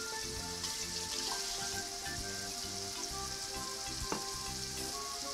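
Blue crabs and sliced jalapeños frying in olive oil in a pan, giving a steady, even sizzle.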